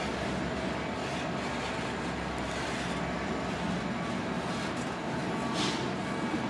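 Freight train hopper cars rolling past: a steady rumble of steel wheels on the rails, with a brief hiss about five and a half seconds in.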